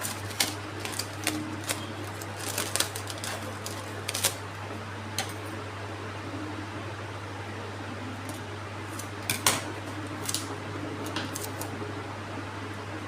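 Scattered short clicks and taps of items and packaging being handled, over a steady low hum.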